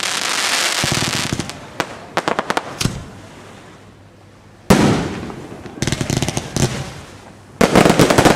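Aerial fireworks display: a run of sharp bangs and crackling, a short lull, then a sudden loud bang about halfway through, and a dense burst of rapid crackling cracks near the end.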